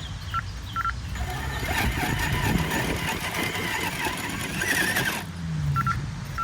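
RC rock crawler driving over rough ground: its small electric motor and gearing whine, changing pitch with the throttle, while the tyres scrabble on the surface. It stops abruptly about five seconds in.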